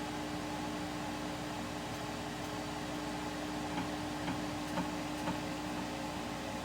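A steady hum over an even hiss, with four light ticks about half a second apart a little past the middle.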